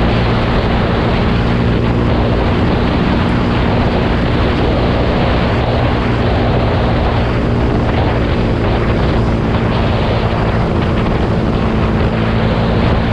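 Yamaha YZF-R125's single-cylinder 125 cc four-stroke engine running through its exhaust at steady, unchanging revs.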